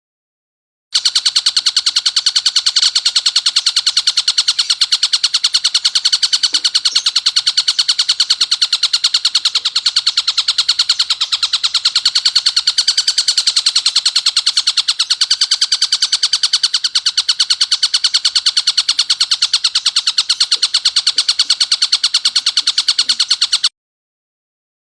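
Tengkek buto kingfisher calling in a harsh, rapid, unbroken rattling chatter of many notes a second. It starts about a second in and cuts off abruptly near the end.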